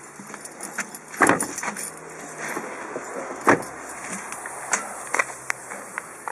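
Irregular sharp clicks and clacks from a Volkswagen Golf Touran's door lock, with two louder clacks about a second in and midway through. This is the lock that makes an abnormal noise and fails to lock or unlock.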